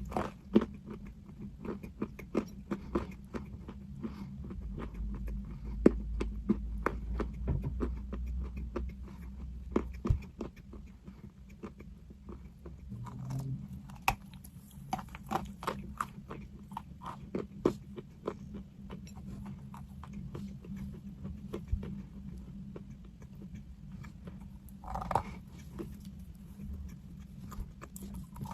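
Pieces of chalk being bitten and chewed close to the microphone, making an irregular string of crisp crunches and clicks, several a second, over a steady low hum.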